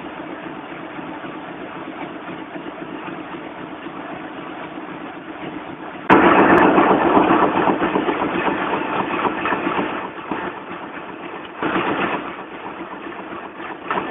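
1978 Uniman newspaper printing press running, a dense steady mechanical din that turns suddenly louder about six seconds in, eases again after about ten seconds, and swells briefly near the end.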